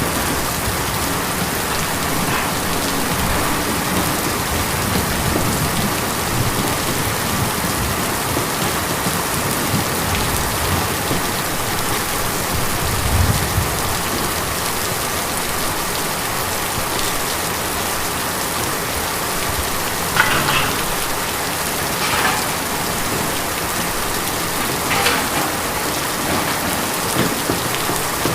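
Steady rain drumming on a tin roof, a dense even patter. A brief low rumble comes about halfway through, and a few louder individual drop strikes fall in the second half.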